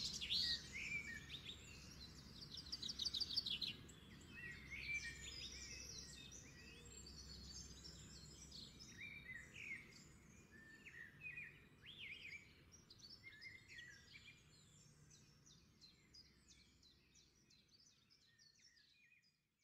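Several songbirds singing and chirping, a mix of short calls and fast trills, fading out gradually to silence at the end.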